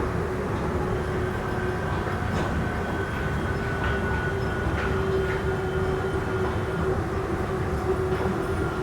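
Soekarno-Hatta airport Skytrain people-mover car running between stations, heard from inside the car: a steady low rumble with a steady mid-pitched drone and a fainter high whine, and a few light clicks.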